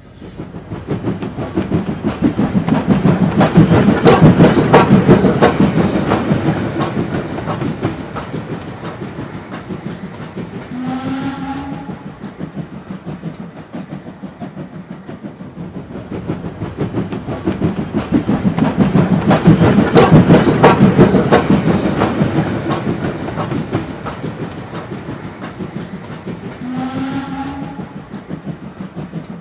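Train running with a fast rhythmic clatter that swells to a peak and fades away, with a short whistle about eleven seconds in. The same passage then repeats: the clatter swells again and the whistle sounds again near the end.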